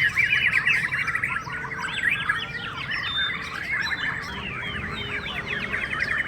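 A chorus of many white-rumped shamas singing at once: dense, overlapping rapid trills and whistles with no pause.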